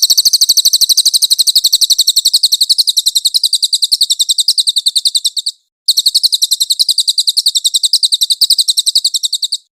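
A songbird's rapid, very high-pitched trill of about eleven even notes a second, sung in two long unbroken bouts with a short break in between.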